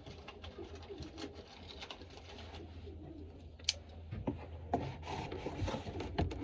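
Racing pigeon cock cooing inside its shipping box. From about four seconds in, clicks and scraping of the box being handled.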